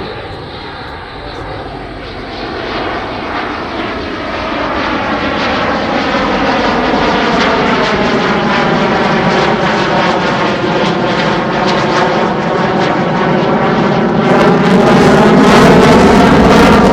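F-16 fighter jet's engine running at high power in a flying display, its noise building as the jet closes in and loudest near the end, where it turns harsh and crackling.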